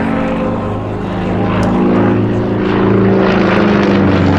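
Sukhoi Su-26MX aerobatic plane flying a display: its nine-cylinder radial engine and propeller running hard. The pitch wavers as it manoeuvres, and the sound grows louder about halfway through.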